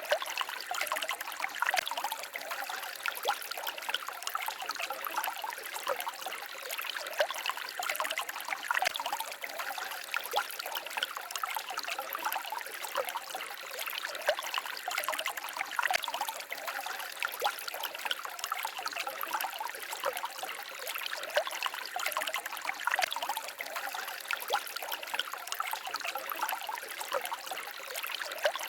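A shallow stream babbling and trickling over stones: a steady rush of water flecked with many small splashes and gurgles.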